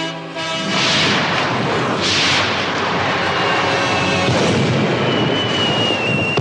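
Orchestral brass music gives way, about half a second in, to loud booms: two blasts with a rushing hiss about a second apart, then a long rolling rumble.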